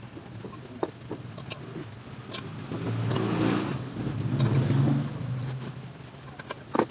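A low engine hum that swells louder between about three and five seconds in, then fades, as of a motor vehicle passing. A few sharp clicks sound over it, the loudest near the end.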